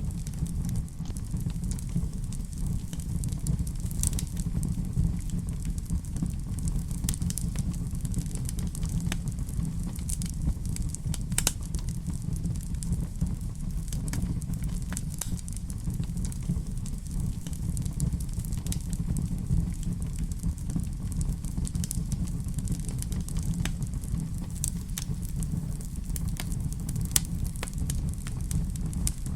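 Wood fire in a fireplace crackling, with irregular small pops and a few sharper snaps over a steady low rumble.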